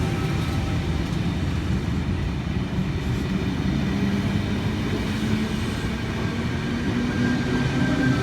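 Electric passenger train pulling out of a station: a steady rumble of running gear with a motor tone slowly rising in pitch as it gathers speed.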